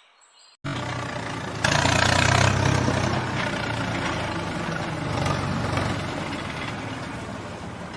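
A vehicle engine runs, cutting in suddenly about half a second in with a low hum. It is loudest for a second or so soon after starting, then runs steadily and slowly fades.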